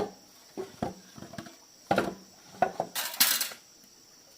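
Dishes and utensils being handled: several separate knocks and clinks, then a longer rattle about three seconds in.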